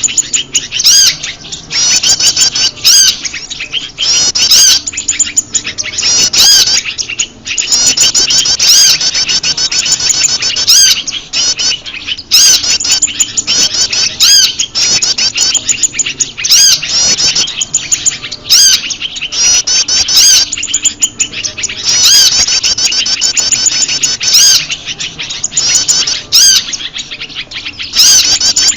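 Recorded bird-lure track: prenjak lumut calls mixed with a chorus of agitated small birds, rapid high chirps and trills repeating almost without a break, with short gaps now and then.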